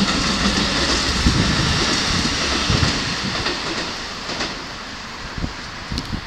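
Keikyu Line electric train running past, a loud steady rush of wheel and rail noise that fades away over the last couple of seconds.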